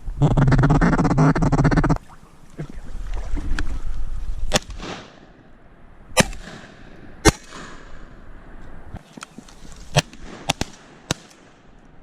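Loud, rapid duck quacking for the first two seconds. Then scattered shotgun shots: single cracks about four and a half, six and seven seconds in, and a quick cluster of three or four shots near the end, several of them ringing out across the open water.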